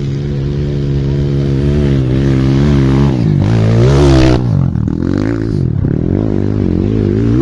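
Dirt bike engine running, its pitch rising and falling as the throttle is worked, loudest about four seconds in.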